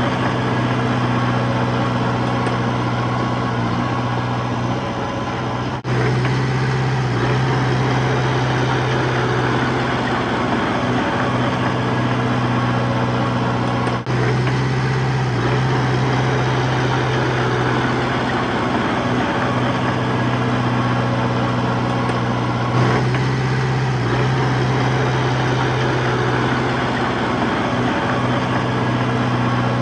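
Heavy diesel engine of earthmoving machinery running steadily with a deep hum, broken abruptly three times.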